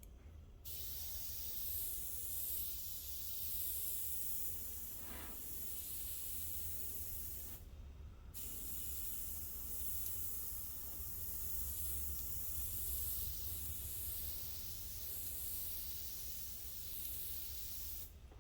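Air-powered paint sprayer hissing in two long passes, with a brief stop about 7 seconds in.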